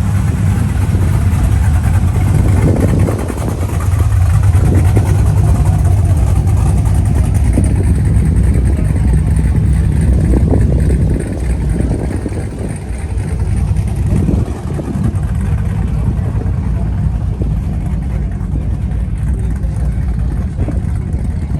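A car engine idling with a steady low rumble, dipping slightly about halfway through.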